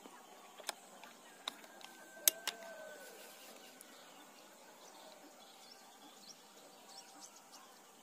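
Faint bird calls and chirps over open-air background noise, with a few sharp clicks, the loudest about two seconds in.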